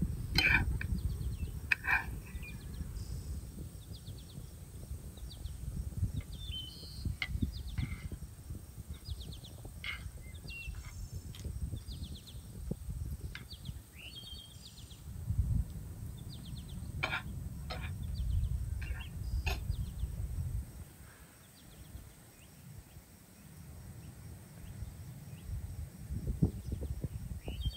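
Small birds chirping in short, scattered calls over a low, uneven rumble that swells and fades.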